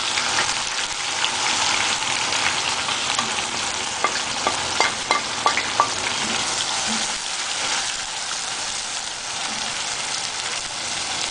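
Chopped onion sizzling steadily in hot oil in a frying pan, the onions starting to brown. Between about four and six seconds in come a run of sharp clicks, the spoon knocking in the pan as it is stirred.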